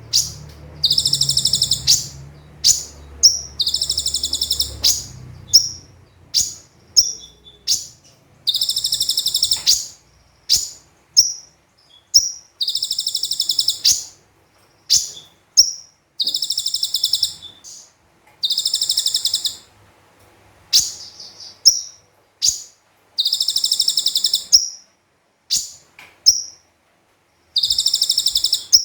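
Olive-backed sunbird (konin) song: eight rapid, rattling high trills of about a second each, the 'tembakan' bursts, repeated every three to four seconds, with short sharp chirps in between.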